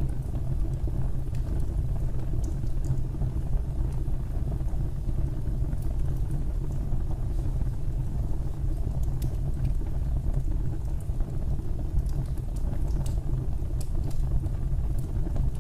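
Fire burning in a fireplace: a steady low rumble of flames with scattered small crackles.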